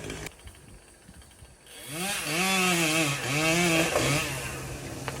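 Chainsaw revved up and back down twice, then settling to a steady idle. The first second or so is quiet.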